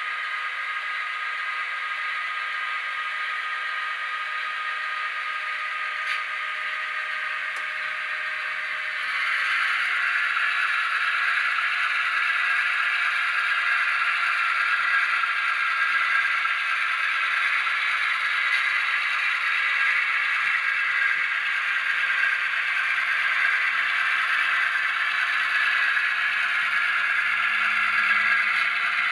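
Soundtraxx Tsunami decoder's simulated EMD 645 non-turbo diesel prime mover playing through the HO GP15-1 model's small speaker, thin with no low end. It runs steadily, then about nine seconds in grows louder and fuller, as when the throttle is raised.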